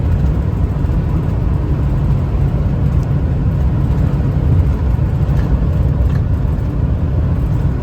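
1997 Ford F350 with the 7.3 turbo diesel cruising at about 75 mph, heard from inside the cab: a steady low drone of engine, driveline and tyre noise.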